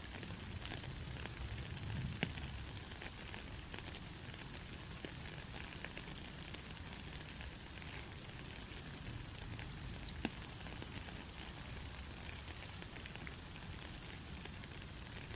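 Steady white-noise hiss with scattered light crackles, played as a baby sleep sound. Two sharper clicks stand out, about two seconds in and again about ten seconds in.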